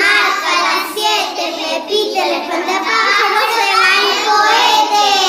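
Children singing a Spanish children's song about a scarecrow, the singing running on steadily, then cutting off suddenly at the very end.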